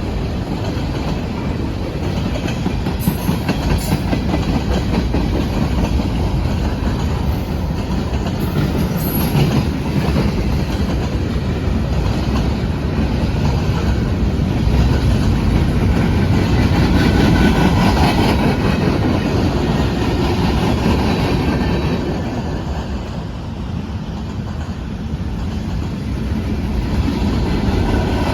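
Freight cars of a long mixed manifest train rolling past at track side: a steady, loud rumble of steel wheels on rail with occasional sharp clacks.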